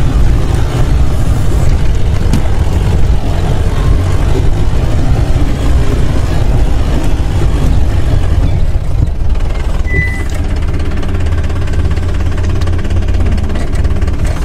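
Land Rover engine running, a steady low rumble.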